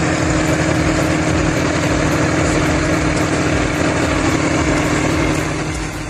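Heavy tractor engine running steadily during a mud recovery, with a constant engine drone and a loud wash of mechanical noise.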